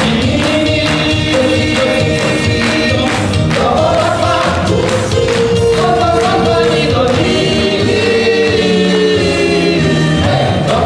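Soviet-style vocal-instrumental ensemble playing live, several voices singing together in harmony over electric band backing with a steady beat.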